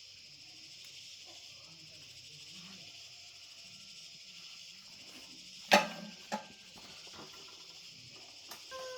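Steady shrill chorus of crickets, with two sharp clicks a little past halfway, the first one loud, and a short falling whine near the end.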